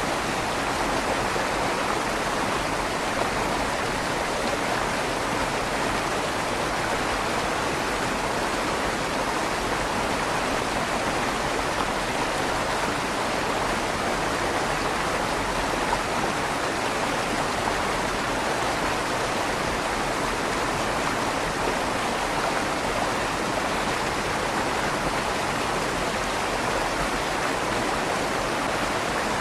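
River water flowing steadily through the stone tunnel beneath a trail bridge, an even rushing with a slight echo off the tunnel walls.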